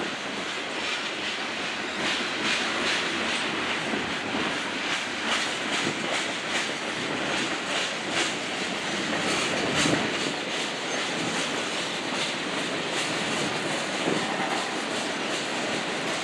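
Freight cars of a mixed freight train (autoracks, tank cars, boxcars) rolling past and onto a steel girder bridge, steel wheels clacking steadily over the rail joints. A thin, high wheel squeal runs for about two seconds midway.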